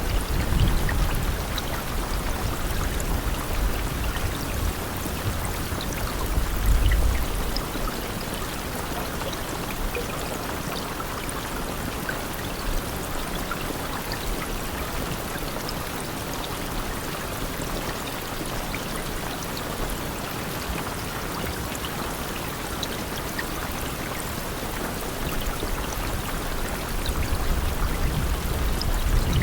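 Steady rainfall, an even hiss with scattered drop ticks. A low rumble swells under it for the first several seconds and again near the end.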